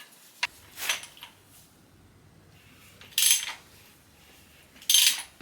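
Metal engine parts clinking during an engine teardown: a few light clicks, then two louder ringing metal clanks about three and five seconds in.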